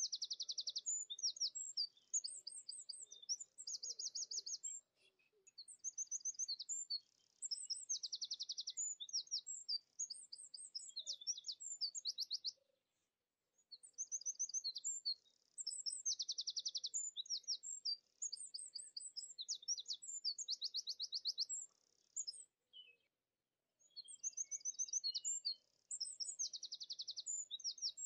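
Songbird singing high-pitched phrases of quick chirps and fast, evenly pulsed trills, repeated over and over with short pauses between bouts.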